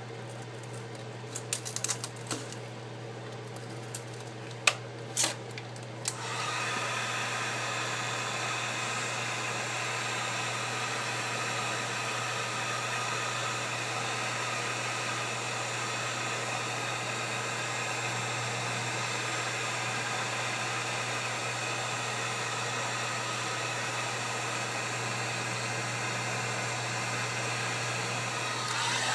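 A few sharp clicks and taps of tools being handled, then about six seconds in a heat gun switches on and blows steadily, an airy rush with a faint whine, heating the iPad's glass to soften the adhesive.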